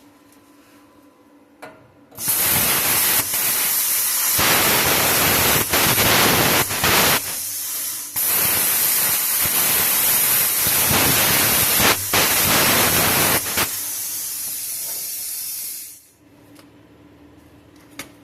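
Bestarc plasma cutter cutting through a truck's exhaust pipe: a loud, harsh hiss that starts suddenly about two seconds in, changes in strength several times as the cut goes on, and stops suddenly about two seconds before the end. A faint steady hum is heard before and after the cut.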